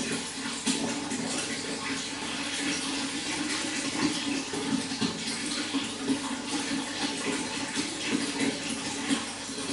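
Running water splashing steadily, with small irregular splashes.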